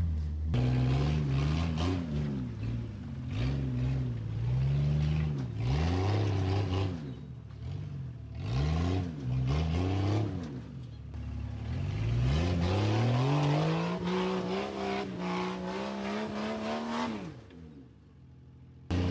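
Off-road Jeep engine revving up and down in repeated surges, with a longer, steady climb in pitch in the second half, then falling away near the end.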